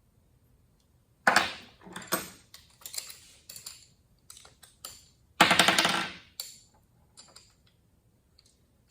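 Socket ratchet and sockets being handled: two short runs of rapid metallic clicking, about a second in and just past the middle, with lighter clinks and ticks between.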